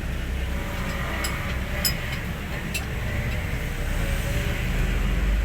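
Hino 500 truck's diesel engine running steadily with a low rumble, growing a little louder near the end, with a few light metallic clicks in the first three seconds.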